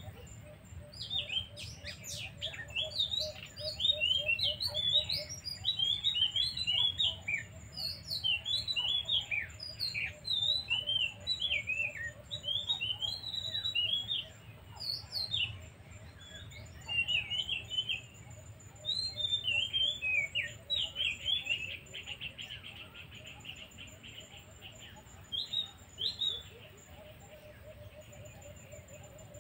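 Small birds chirping busily in short, high, falling notes, with a fainter low, rapidly pulsed call at the start and again near the end.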